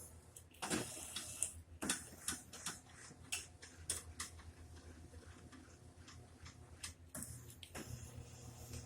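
Irregular clicks and light knocks from the mechanism of a lift table made from a hospital bed as it is worked, over a low steady hum.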